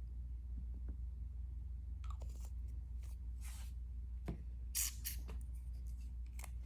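Small handling sounds while mixing leather colour: a few short scratchy swishes and faint clicks, the loudest a little after the middle, over a steady low hum.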